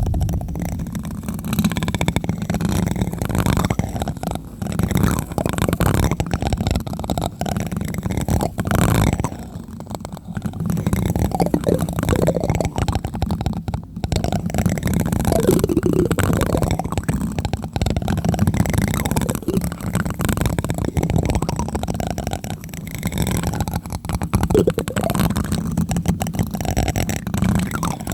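Plastic spoon tapping on a microphone close up: a steady stream of quick, dull, deep thumps.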